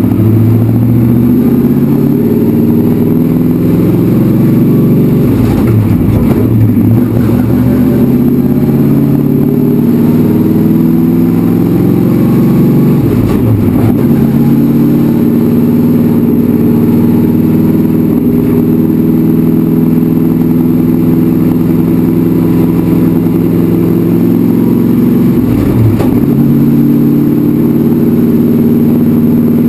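Racecar engine heard from inside the cockpit, accelerating and running up through the gears. Its pitch climbs and then drops sharply at each of several shifts.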